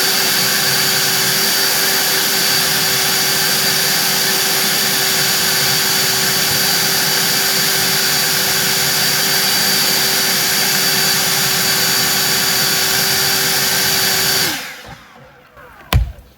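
EGO cordless leaf blower running steadily at full speed, a strong rush of air with a steady whine, through a tapered nozzle tube. It is switched off about 14.5 seconds in and dies away quickly, and a single knock follows near the end.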